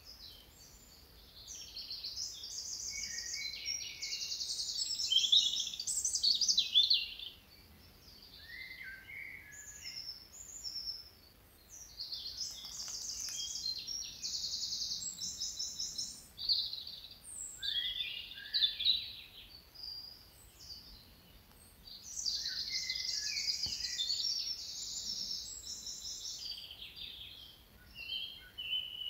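Wild birds singing: phrases of high, rapid trills and chirps in bursts of a few seconds, separated by brief pauses.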